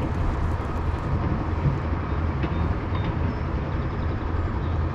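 Steady low rumble of a boat engine running, with no distinct events.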